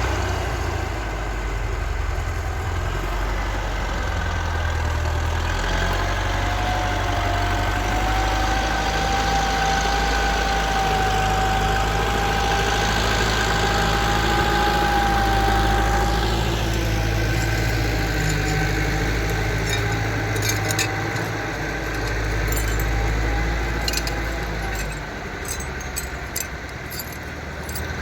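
Tractor engine running steadily, with a steady whine over it for several seconds in the middle.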